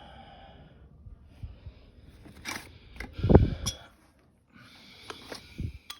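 Hand tools being pulled from a tool tote and set down: rustling, a few light clicks and knocks, and one heavy thump about halfway through as a tool is put down.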